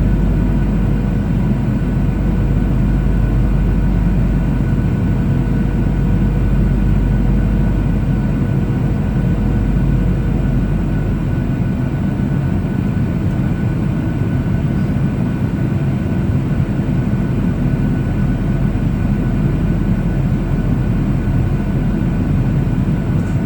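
Steady cabin noise of a Boeing 737-800 in flight: a constant low rumble of its CFM56 engines and airflow, with faint steady whining tones above it. One of the tones fades out about ten seconds in.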